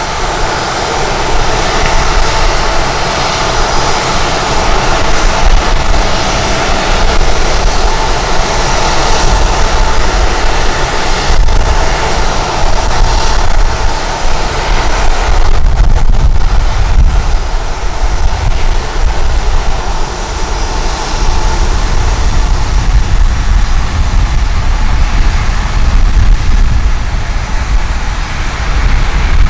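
Jet airliner's engines passing close, a steady whine in the first half giving way to a deep rumble that grows in the second half, with strong wind buffeting the microphone.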